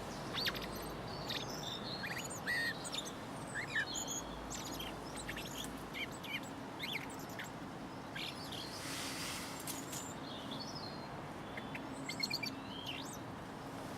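Male Eurasian blackbird giving a scattered run of short, high chirps and squeaky notes, with gaps between them, over a faint steady low hum.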